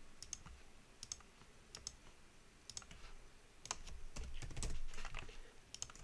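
Faint, irregular clicks and taps of a computer keyboard and mouse, a few at a time with short gaps between.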